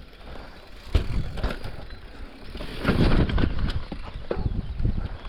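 Mountain bike climbing over rough ground: an uneven rumble with scattered knocks and rattles from the tyres and frame, loudest about three seconds in.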